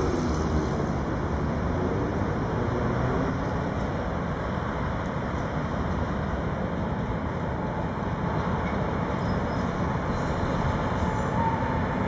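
Steady rumble of a train approaching on the railway, mixed with road traffic noise; an engine's gliding pitch fades out over the first couple of seconds.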